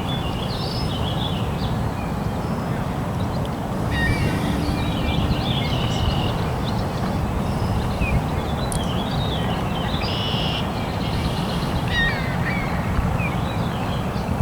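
Birds calling with many short chirps and twitters over a steady low rumble, the calls busier from about four seconds in.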